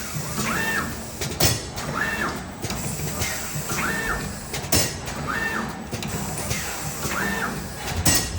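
Automatic turntable screen printing machine cycling: a motor whine rises and falls about every second and a half to two seconds over a steady mechanical rumble, with a sharp clack about every three and a half seconds.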